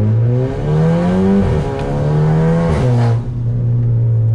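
VW Scirocco 1.4 TSI four-cylinder engine accelerating hard, heard from inside the cabin. It revs up, drops pitch at a gear change about a second and a half in, and revs up again with a rushing hiss. About three seconds in the throttle is lifted and the hiss cuts off, and the engine settles to a steady lower drone.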